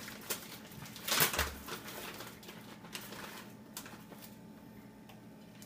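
Light handling sounds as shredded cheese goes onto hard taco shells: a brief rustle about a second in and a few soft clicks.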